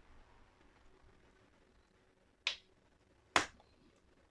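Two sharp clicks less than a second apart, the second louder: a laptop's super-glued DC-in jack cracking as it is pried loose.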